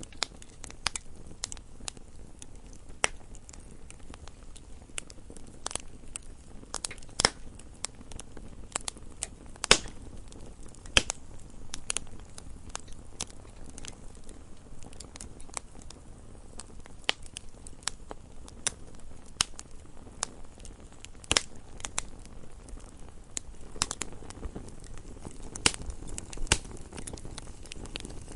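Wood fire burning in a fireplace: a low steady hiss and rumble of flames with sharp, irregular crackles and pops from the burning logs, a few louder snaps among them.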